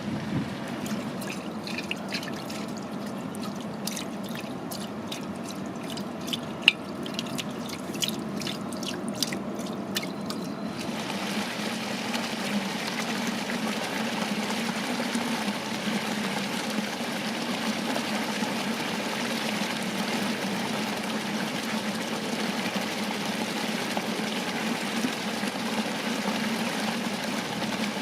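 Water from a garden fountain cascade trickling and splashing, with many small separate splashes and one sharp click about seven seconds in. About eleven seconds in it changes to a steadier, fuller rush of cascading water.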